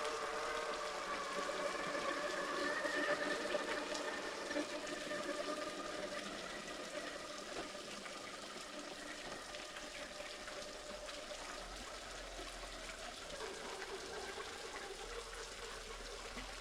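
Steady rush of a small creek waterfall, with the whine of a Redcat Ascent RC crawler's electric motor and gears over it for the first several seconds, fading out after about six seconds.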